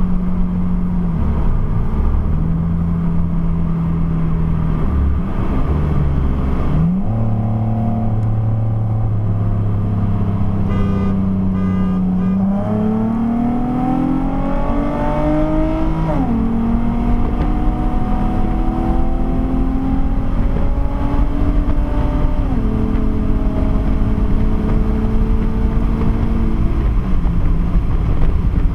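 Car engine heard from inside the cabin, running at a steady pitch, with a short rev about a quarter of the way in. Near the middle the pitch climbs for a few seconds as the car accelerates, drops sharply at an upshift, then settles to steady cruising and steps down once more later on.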